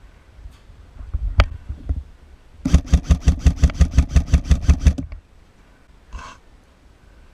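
Airsoft electric gun firing a burst on full auto: a fast, even train of about sixteen shots, roughly seven a second, lasting a little over two seconds. A sharp click and a few knocks come just before it.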